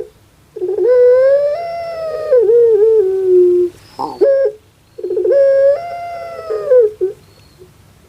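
Puter pelung, a Javanese song breed of Barbary dove, giving two long coos, each a held note that rises and wavers before dropping off, with a short note between them. The drawn-out call sounds like a child crying.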